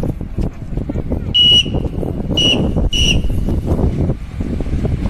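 Three short, shrill whistle blasts over the low rumble and clatter of a freight train passing on the rails.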